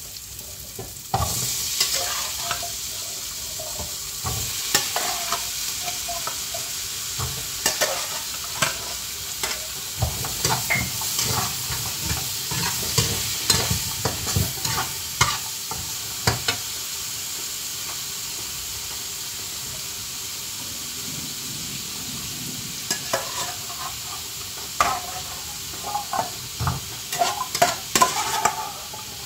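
Sizzling starts suddenly about a second in, as carrots go into a granite-speckled wok of hot oil and fried soup spices, and keeps on steadily. A spatula stirs and scrapes the pan with many sharp clacks, and near the end a burst of knocks and clanks comes as a metal pot is handled.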